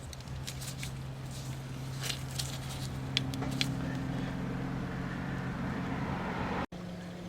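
Steady low mechanical hum with several light clicks and taps in the first few seconds, from strut parts being handled. The hum breaks off for an instant near the end and resumes at a slightly higher pitch.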